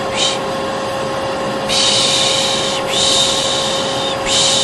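Vacuum cleaner motor running steadily, with a person shushing ('shh') over it again and again: a short shush just after the start, then longer ones of about a second each. This is the shushing used to soothe a baby.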